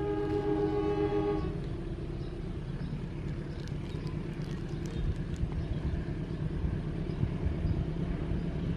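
Train horn sounding a chord-like blast that stops about a second and a half in, followed by a steady low rumble of a train running.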